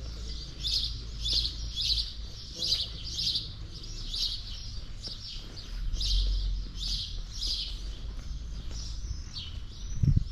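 Small birds chirping: a steady run of short, high call notes, about two a second, over a low rumble.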